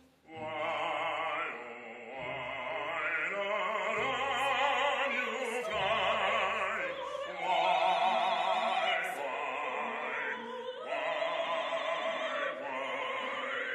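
An operatic voice singing long, high held notes with a wide vibrato over an instrumental accompaniment, part of an opera aria.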